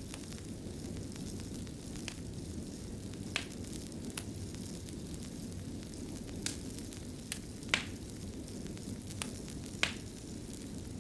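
Wood fire burning in a fireplace: a steady low rumble with sharp crackles and pops at irregular intervals, the loudest a little past a third of the way in, again near two-thirds, and again near the end.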